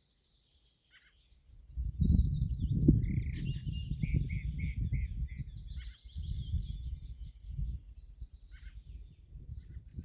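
Several songbirds singing, with short whistled phrases, a run of about five repeated notes and a fast trill. From about two seconds in, a loud, uneven low rumbling noise runs under the song and is the loudest sound.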